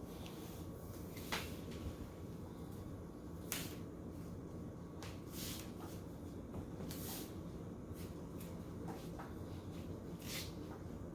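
Quiet handling noises over a low steady hum: two sharp clicks in the first few seconds, then several short, soft rustling brushes.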